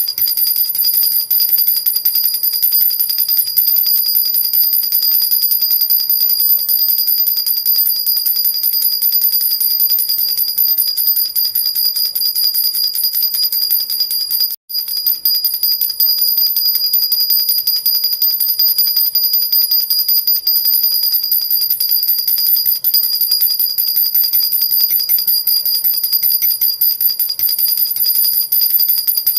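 Jhunjhuna (baby rattle) shaken steadily without pause, a dense bright jingling with high ringing tones. It breaks off for a split second about halfway, then carries on.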